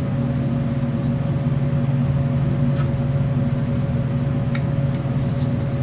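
Steady machine hum, even and unchanging, with a couple of faint light ticks about three and four and a half seconds in.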